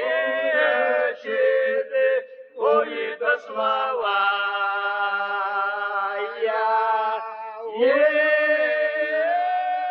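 Unaccompanied voices singing in a chant-like style, holding long steady notes that shift slowly in pitch, with a short break about two and a half seconds in.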